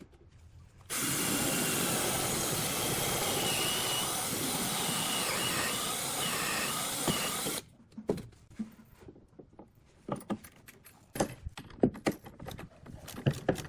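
A power tool working on hardwood runs loudly and steadily for about seven seconds, starting and stopping abruptly. Scattered sharp knocks and taps follow.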